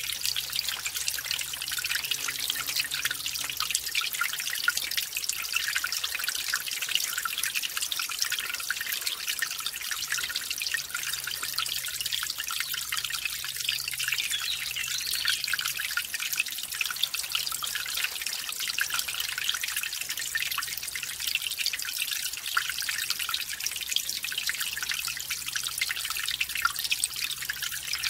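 Small mountain stream trickling and splashing over a little waterfall: a steady, high-pitched rush of water full of fine drips and splashes.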